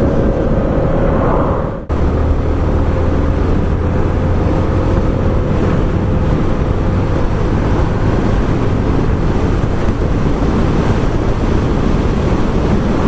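Honda CB125F's single-cylinder four-stroke engine running under way, mixed with wind rushing over the helmet microphone; the engine note eases slightly lower over a few seconds. The sound cuts out for an instant about two seconds in.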